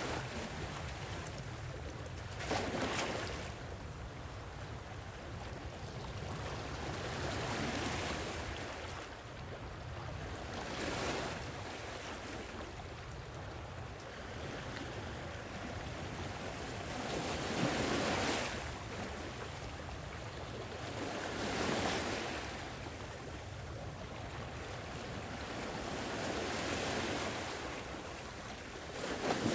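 Sea waves breaking on a shore, each swell rising and falling away every few seconds over a steady wash of surf.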